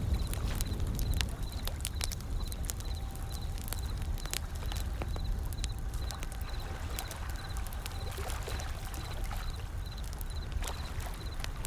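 Wood fire crackling with scattered sharp pops over a steady low wash of ocean waves, a little louder in the first second or so.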